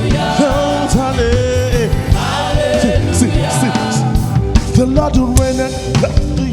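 Live gospel praise music from a church choir and band: voices singing and sliding between notes over a band with repeated percussion hits.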